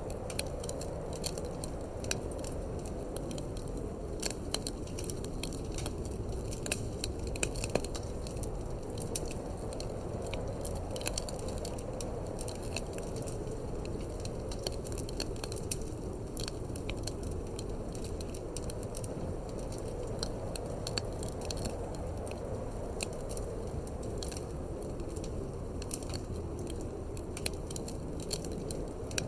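Wood fire crackling in a fireplace, with many irregular sharp pops and snaps, over a steady low rumble of wind.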